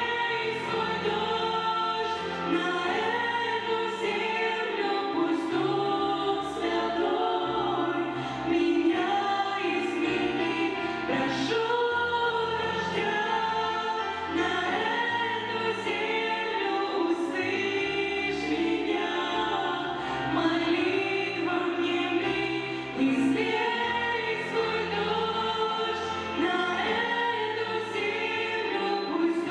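Choral singing over music with a steady bass line and a light, regular beat.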